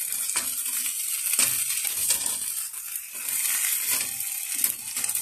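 Bologna slices sizzling in a frying pan, with metal tongs clicking now and then as they lift and turn the slices.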